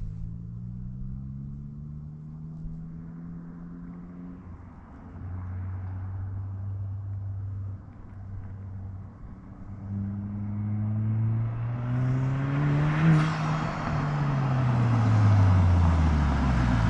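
Volkswagen MK8 GTI's turbocharged 2.0-litre four-cylinder through a muffler-delete exhaust, accelerating in a pull, holding steady, then pulling hard again. It is loudest about 13 seconds in, then drops in pitch toward the end.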